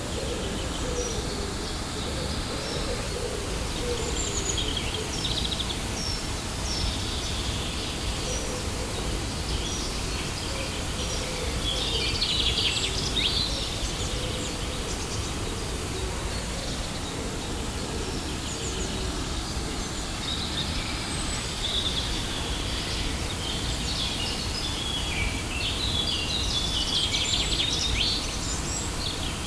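Steady rushing of a waterfall, with songbirds chirping over it in scattered runs, busiest about halfway through and again near the end.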